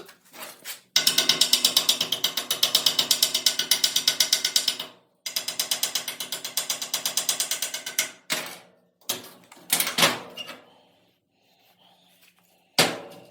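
Fast, even strokes of a hand tool working the freshly welded steel disc part by hand. The strokes come about eight a second in two runs of several seconds each, with the metal ringing under them, followed by a few single knocks near the end.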